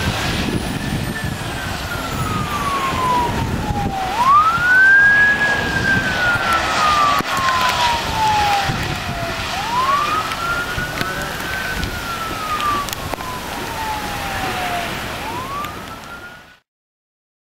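A siren wailing: its pitch climbs quickly and then slides slowly down, over and over, about every five seconds, above steady background noise. The sound cuts off abruptly near the end.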